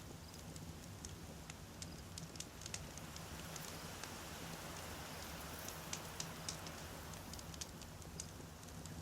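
Wood fire crackling, with irregular sharp pops over a low steady rumble; a soft hiss swells up in the middle.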